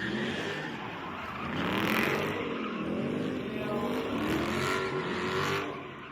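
A car engine revving up and down over and over, its pitch rising and falling about once a second, over a steady hiss of spinning, sliding tyres as the car drifts in circles.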